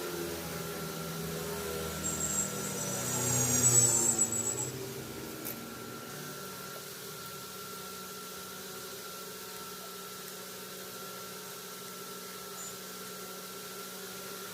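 Small electric motor of a mixer grinder running. Its pitch shifts over the first few seconds, with a louder burst about four seconds in, then it settles into a steady hum.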